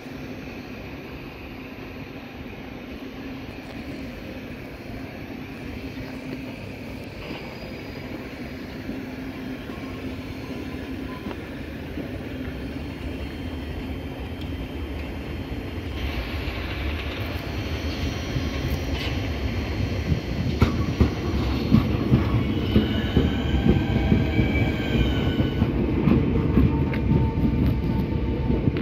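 A Southeastern electric multiple-unit train approaching and pulling in alongside the platform, its rumble and wheel noise growing steadily louder. About three quarters of the way through, a high squeal from the wheels wavers in pitch for a few seconds as it slows.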